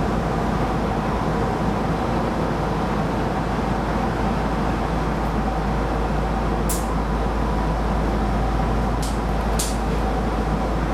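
Keisei Line electric commuter train running steadily along the track, heard from on board: a constant rumble with a faint steady hum from the motors. Near the end, three brief high-pitched sounds cut through.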